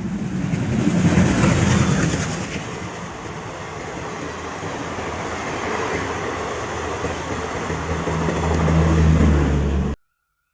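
Express train hauled by a WAP-4 electric locomotive running past at speed: a continuous rush of wheel and rail noise, with a low steady hum building up near the end. The sound cuts off abruptly about ten seconds in.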